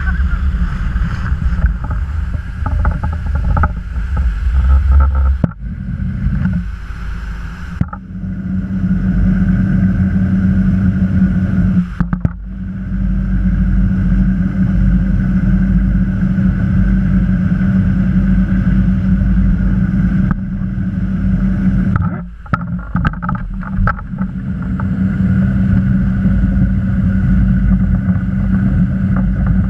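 A motorboat's engine running steadily under way, with wind and water noise over it; the sound dips briefly a few times as the boat rides over the waves.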